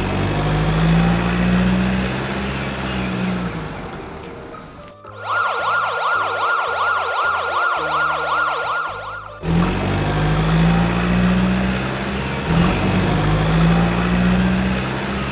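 A siren warbling rapidly for about four seconds in the middle, cutting in and off sharply, between stretches of a motor running with a wavering low hum and a noisy rasp.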